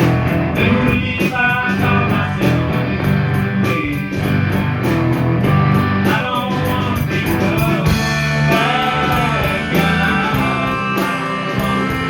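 Rock band playing: guitar lines over bass and drums, with a steady beat.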